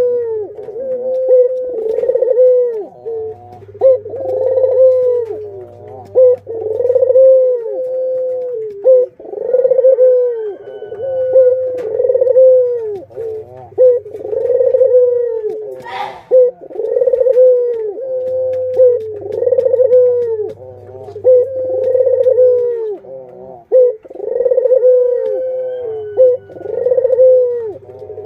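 Ringneck doves (burung puter) cooing over and over, one coo after another at about one a second with calls overlapping. A faint low hum comes and goes in the background, and there is a single sharp click partway through.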